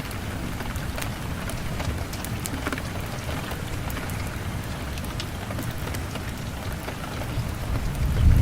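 Steady rain with scattered sharp drop-like clicks over a low rumble, which swells louder near the end.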